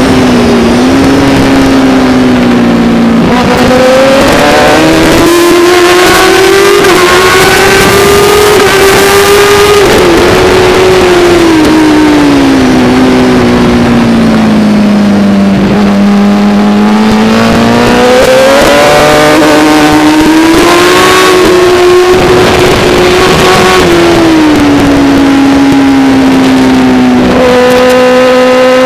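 Racing motorcycle engine heard from an onboard camera, running hard at high revs, its pitch climbing and falling as the rider works the throttle and gears through the corners, with sudden steps in pitch at the gear changes. A constant rush of wind and road noise runs underneath.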